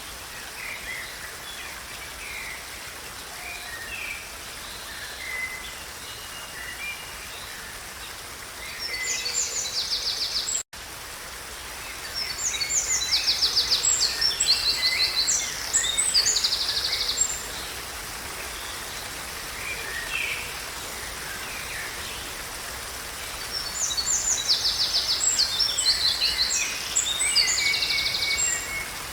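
Wild birds singing and calling over a steady, even hiss of outdoor background noise. Three stretches of loud, rapid trilled song stand out: about a third of the way in, through the middle, and near the end. The whole sound cuts out for an instant just before the first of the middle songs.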